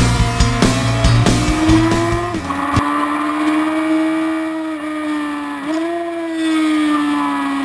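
Rock music with heavy drums for the first couple of seconds, then the Honda CBR1000RR's inline-four engine alone at high revs. Its pitch sags slowly, dips briefly about six seconds in, then climbs again.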